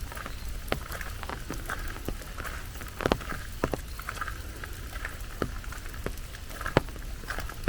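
Rain falling steadily, with many large drops striking sharply and irregularly close by, over a low steady rumble.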